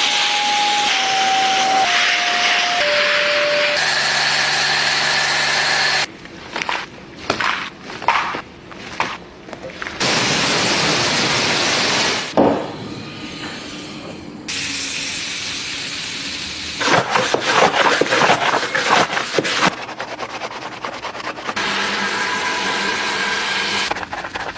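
Car wash water jets spraying, steady at first, then in a run of short on-off bursts, then steady again, with a sharp knock about halfway through and a quieter gap after it.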